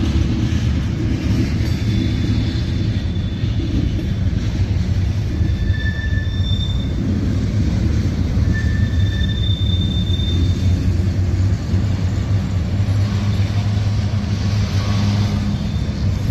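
Freight cars (tank cars and a covered hopper) rolling steadily past: a constant low rumble of steel wheels on the rails, with several brief high-pitched wheel squeals along the way.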